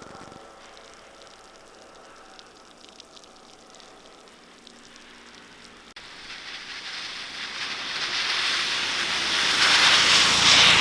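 A vehicle passing on a wet, slushy road: tyre hiss that builds from about halfway through to its loudest near the end, then starts to fade.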